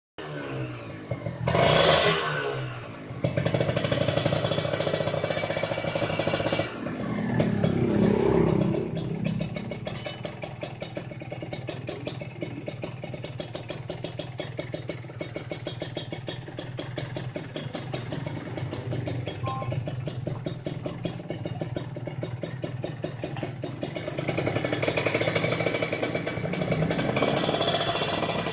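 Kawasaki Ninja 150's single-cylinder two-stroke engine breathing through an ABRT20 aftermarket exhaust, with a tinny 'ting ting ting' ring. It is revved sharply about two seconds in, held at high revs, revved again, then idles with a rapid even beat before being run up again near the end.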